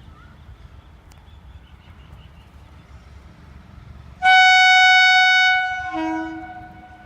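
Electric locomotive's horn sounding one long high blast about four seconds in, then dropping to a lower note that fades out within a second.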